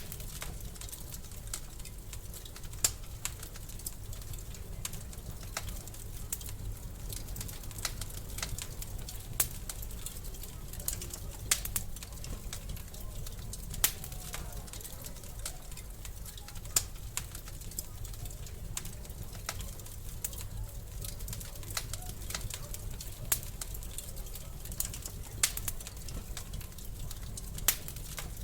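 Wood fire crackling in a fireplace: irregular sharp pops and snaps over a low steady rumble, with a louder pop every few seconds.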